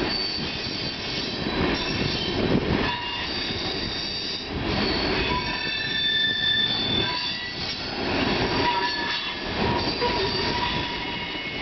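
A CN freight train's tank cars rolling past on the rails, with a continuous rumble of wheels and high-pitched wheel squeal that comes and goes as the cars go by.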